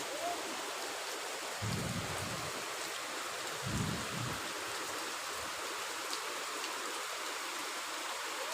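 Heavy rain falling steadily, with two short low rumbles about two and four seconds in.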